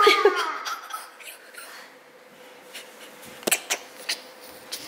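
Quiet room with a faint steady hum; a voice trails off at the start, and a few short sharp clicks sound in the second half.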